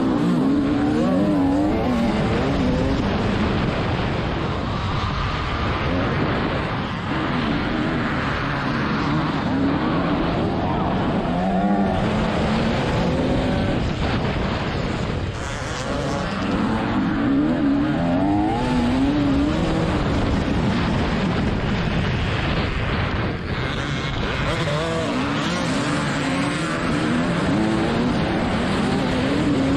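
TM300ES two-stroke motocross bike engine being ridden hard, the revs climbing and falling over and over as the throttle is worked. The revs drop sharply a few times.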